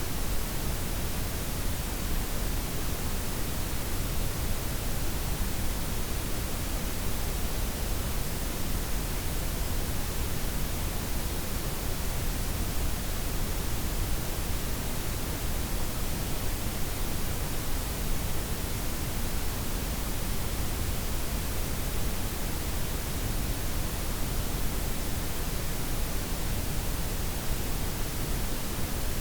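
Steady blend of white, pink and brown noise: an even, unchanging hiss with a deep low rumble underneath and the top end softened.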